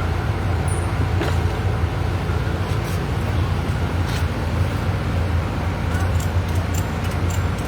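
Steady low rumble of a motor vehicle engine running, with street traffic noise and a few faint clicks.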